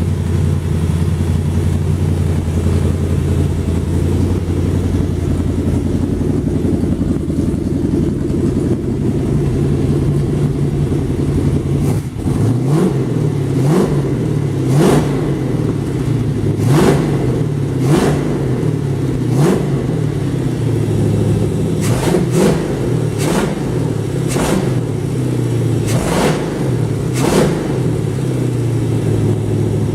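Rebuilt 426 Hemi V8 running on an engine test stand through short dual glasspack pipes off the exhaust manifolds. It idles steadily, then from about twelve seconds in it is blipped a dozen or so times, each rev rising and falling quickly, before settling back to idle near the end.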